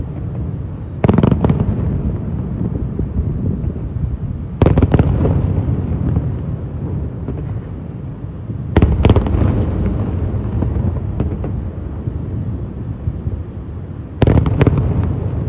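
Aerial fireworks shells bursting in a display: four heavy booms, about a second, four and a half, nine and fourteen seconds in, each with a quick cluster of sharp cracks. Between them runs a continuous low rumble and crackling.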